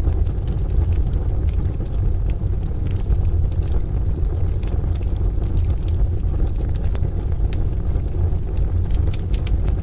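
Wood fire crackling in a stove, with scattered sharp pops and snaps, over a steady low rumble.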